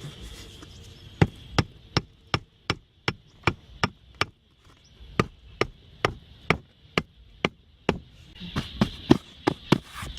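Repeated sharp knocks, like chopping or hammering, about three a second. They come in three runs separated by short pauses, over a steady high-pitched background hum.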